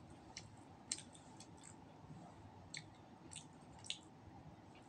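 Faint mouth sounds of someone eating roast duck: several short, wet clicks and smacks of chewing, spread unevenly over a few seconds.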